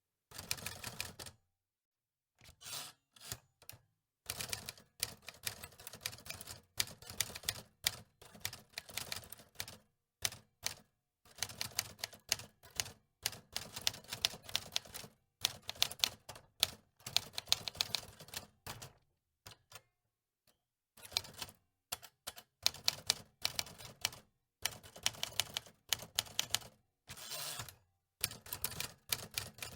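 Antique manual typewriter keys clacking in quick runs of keystrokes, broken by short pauses.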